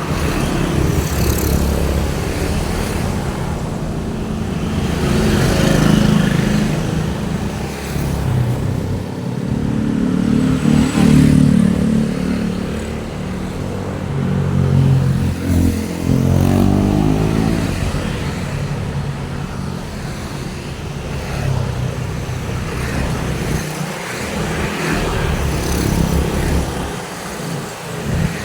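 Steady road traffic: motor vehicles passing one after another, their engines and tyres swelling and fading as each goes by. About two-thirds of the way through, one engine is heard speeding up with a rising tone.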